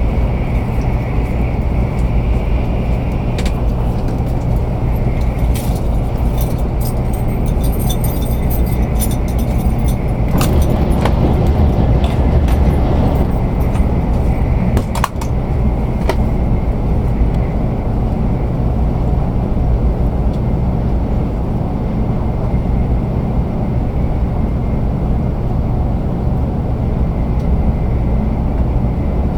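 Cabin noise inside a 500 series Shinkansen train in motion: a steady, loud low rumble with a hiss. Scattered clicks and rattles come through the middle of the stretch, and there is a brief dip in the noise about halfway.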